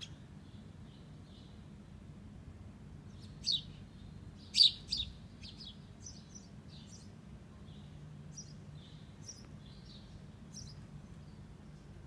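Small bird chirping: short, high chirps scattered throughout, with a few louder ones in quick succession about three and a half to five seconds in.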